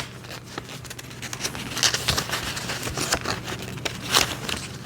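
Paper instruction manual being handled and its pages turned: scattered light rustles and clicks, with a few louder ones, over a steady low hum.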